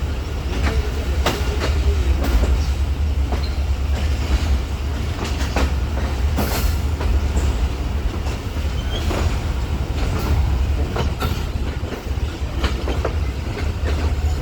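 Passenger train running on the rails, heard from aboard: a heavy steady rumble with irregular sharp clacks as the wheels pass over rail joints and points.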